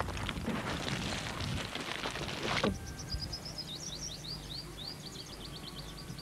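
A dense, crackling rushing noise that cuts off abruptly about two and a half seconds in, followed by a bird singing a quick run of high chirping notes.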